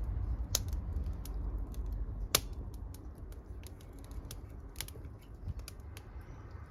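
Wood fire crackling, with irregular sharp pops from the burning wood and one louder pop a little past two seconds in. A low rumble under it fades after about two seconds.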